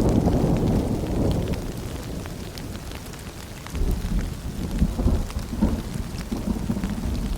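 Rain falling, with scattered drips, under rolling thunder: a deep rumble that fades over the first few seconds and a second rumble that builds about halfway through.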